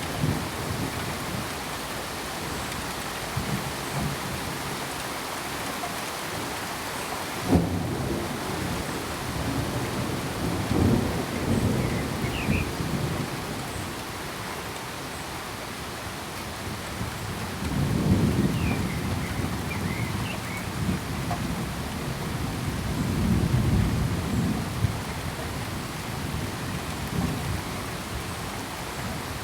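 Steady rain falling, with thunder: a sharp clap about a quarter of the way in, then several low rolling rumbles that swell and fade.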